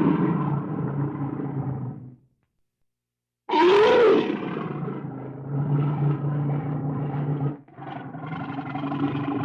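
Deep animal calls in two stretches, split by about a second of dead silence just after two seconds in. The second stretch opens loudly with a call that rises and falls in pitch.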